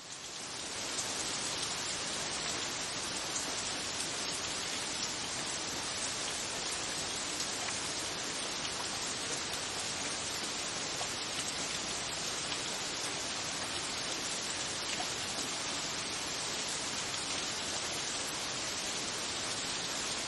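Steady rushing of falling water, an even hiss that fades in over the first second and then holds level.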